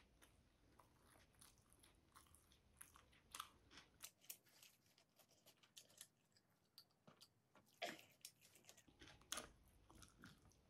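Faint close-up eating sounds: a person chewing chicken adobo and rice, with irregular small clicks and smacks of mouth and fingers.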